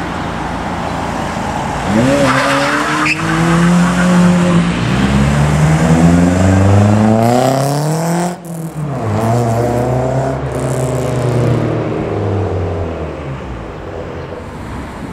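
Cars accelerating hard away, one after the other. Each engine's revs climb in steps as it shifts up through the gears. The first run breaks off about eight seconds in, and a second engine then revs up and fades away.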